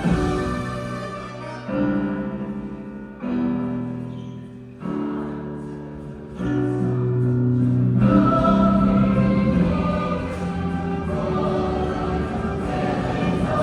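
Music: a choir singing long held chords with accompaniment. Each chord swells in afresh every second and a half or so, then the ensemble comes in fuller and louder about halfway through.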